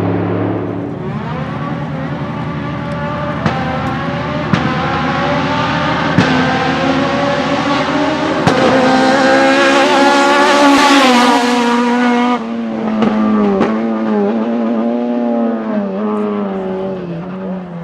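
Fiat 131 Racing's four-cylinder engine accelerating hard, its pitch climbing with a few sharp cracks along the way, then dropping suddenly about twelve seconds in. After that the revs rise and fall several times.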